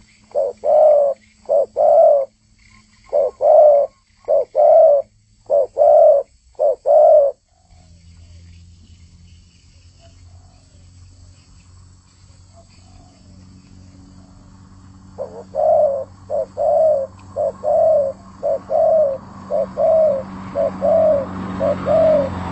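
Spotted dove (tekukur) cooing: a phrase of about nine coos in the first seven seconds, a pause, then from about fifteen seconds in a faster run of evenly spaced coos, about two a second.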